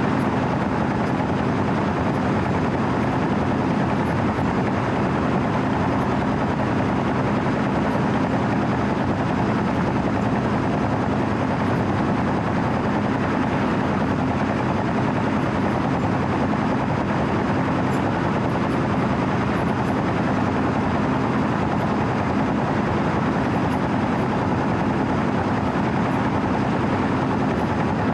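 Diesel engine of a compact 4-foot asphalt milling machine (Wirtgen W 120 CFi) running steadily as the machine travels, heard from the operator's platform before the drum is cutting.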